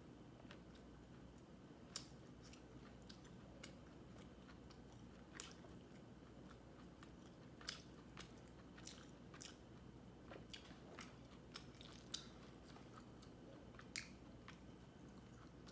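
Faint close-up eating sounds: quiet chewing with a few short, sharp wet clicks of the mouth, spaced irregularly a second or more apart, over a low steady hum.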